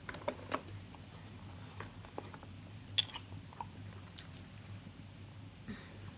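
Someone chewing food, with scattered small mouth clicks. A plastic water bottle is picked up partway through, with a sharp crackle about three seconds in.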